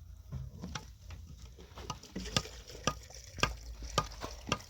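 A series of sharp, short taps and knocks at uneven spacing, roughly two a second, some louder than others, over a low steady rumble.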